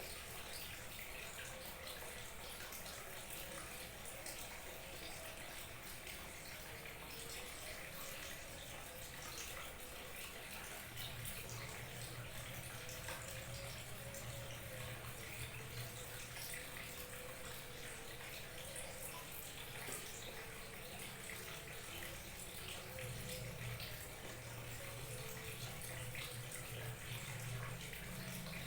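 Small waterfall trickling and splashing steadily.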